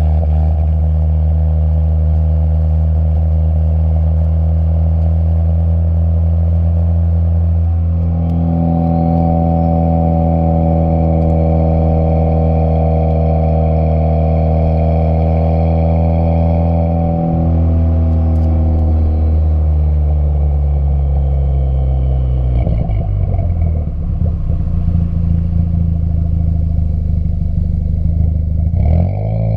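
Ford Fiesta ST engine through an MBRP 3-inch exhaust, running at a steady speed with an even exhaust note. About eight seconds in the note changes and holds steady again. From about twenty seconds it falls gradually as the engine slows.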